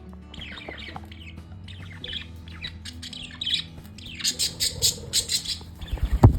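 Small pet parrots chirping, then breaking into a fast run of harsh squawks about four seconds in. A loud thump comes near the end.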